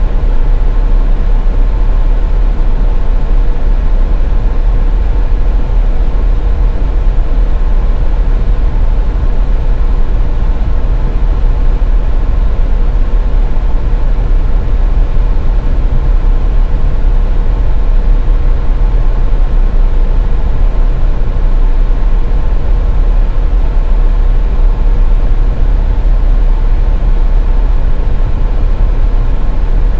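Steady road noise of a car driving on a snowy highway: a loud, unchanging low rumble with a faint steady hum above it.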